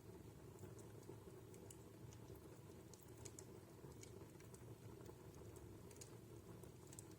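Wood fire in a home fireplace crackling quietly: small, irregular sharp pops and ticks over a steady low hiss.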